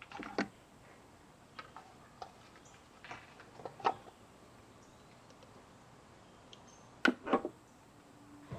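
Plastic motor-oil bottle and funnel being handled while refilling the engine with oil: scattered light clicks and knocks, the loudest pair about seven seconds in.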